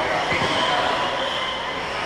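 A pack of RC stadium trucks racing around the track: a steady mix of motor whine and tyre noise.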